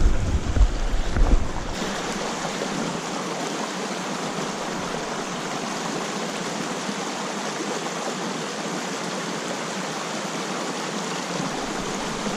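Mountain stream water rushing steadily. For about the first second and a half, a heavy low rumble of wind on the microphone sits over it and then cuts off sharply.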